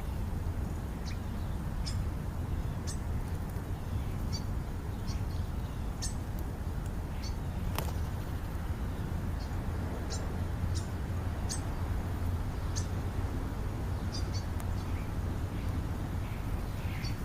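Birds giving scattered short, high chirps, about a dozen across the stretch, over a steady low rumble.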